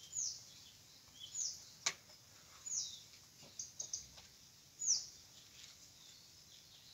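A bird calling again and again: a short high chirp that falls in pitch, four times. A sharp click sounds about two seconds in, and a few faint clicks follow around four seconds.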